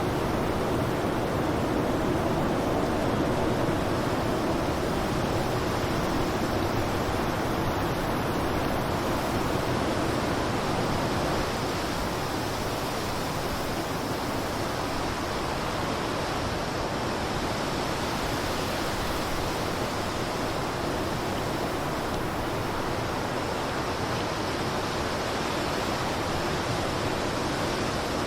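Blizzard wind blowing as a dense, steady rush of noise, easing slightly in level about eleven seconds in.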